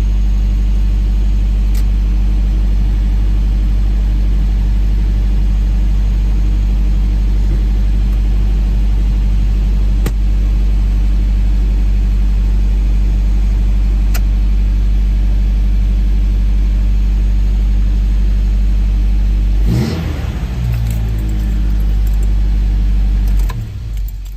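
Toyota 22R four-cylinder engine with a Weber 38 carburetor running at a steady idle while warming up. About twenty seconds in the engine note rises briefly, and near the end the engine dies away as it is switched off.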